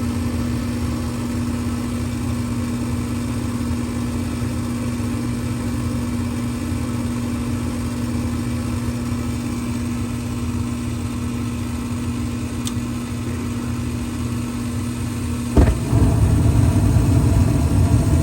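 Carrier gas furnace running on its start-up cycle: a steady motor hum and low rumble while the igniter heats. About three-quarters of the way through, a sudden whoosh as the burners light, then a louder steady rush of burner flame: the air in the gas line has purged and the furnace has lit.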